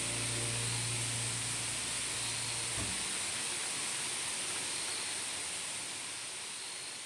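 Steady hiss of a mountain stream under a high, even insect drone, slowly fading out. Low held music tones stop about three seconds in.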